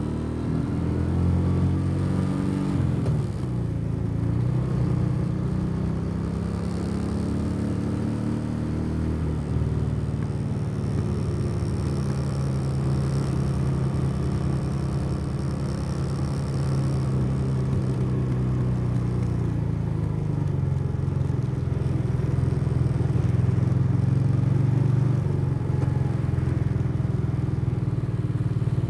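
Motorcycle engine running under way, heard from the rider's seat. The pitch drops and climbs again in the first few seconds, holds steady while cruising, and rises near the end as the engine speeds up. Wind hiss comes and goes over it.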